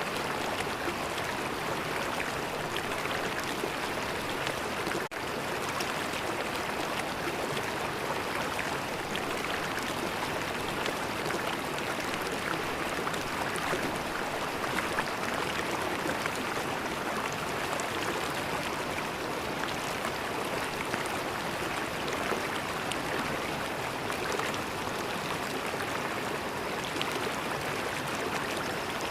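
River water flowing, a steady, even stream sound, with a momentary dropout about five seconds in.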